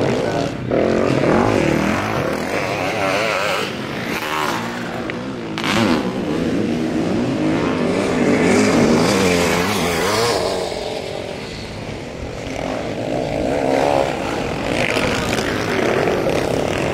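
Motocross sidecar outfits' engines running hard around the track, several at once. The pitch keeps rising and falling with the throttle and gear changes, and the sound grows louder and fainter as the outfits pass.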